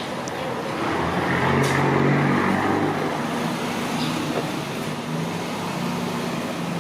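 A motor vehicle passing on a city street: engine and road noise swell to a peak about two seconds in, then ease off to a steady low engine hum.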